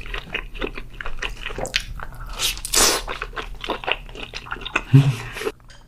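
Close-miked eating: crisp crunching bites and chewing, a dense run of crackles with one especially loud crunch a little before three seconds in. A brief low hum from the eater about five seconds in.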